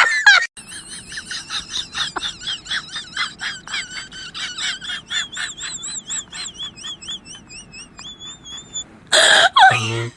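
A rapid series of short, high, wavering chirps, about four or five a second, ending in a couple of longer steady whistle-like notes. A loud cry-like vocal burst comes just before the end.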